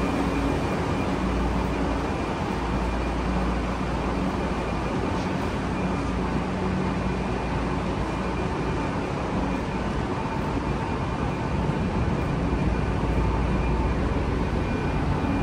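Sotetsu 9000 series electric train standing at an underground platform with its doors open, its onboard equipment giving a steady low hum with a thin high whine over it.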